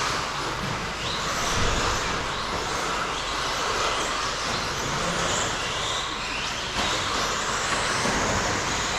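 A field of electric RC stadium trucks racing around the track: a steady mix of motor and drivetrain whine and tyre noise, with pitches that rise and fall as the trucks speed up and slow for the corners.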